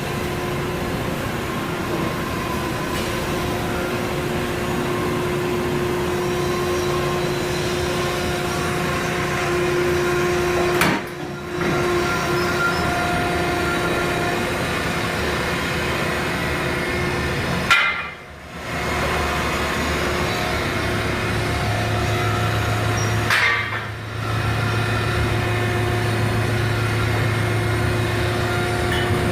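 Factory machinery running with a steady mechanical rumble and hum, dropping away briefly three times.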